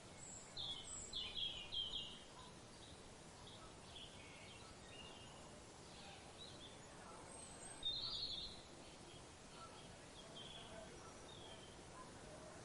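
Birds calling over a faint outdoor background: a quick run of short, high calls in the first couple of seconds, scattered fainter calls after, and one louder call about eight seconds in.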